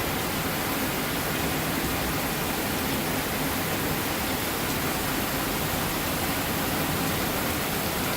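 Heavy thunderstorm rain pouring down, a steady, even hiss.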